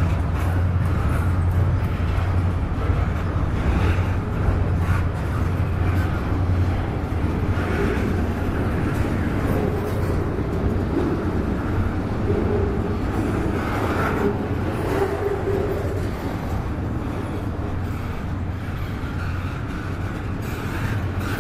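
Double-stack intermodal well cars rolling past on the track: a steady low rumble of steel wheels on rail, with scattered rattles and knocks from the cars, easing slightly near the end.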